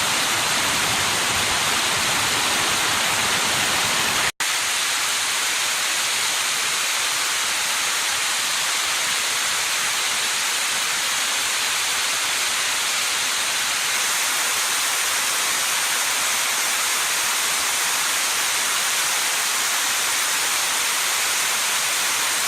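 Steady rush of a waterfall, loud and even. About four seconds in it cuts out for an instant and returns thinner, with less low rumble.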